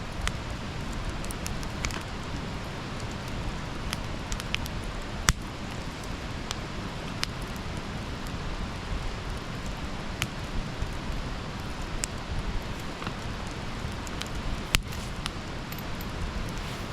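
Wood campfire burning: a steady hiss with irregular sharp crackles and pops, two of them louder, about five seconds in and again late on.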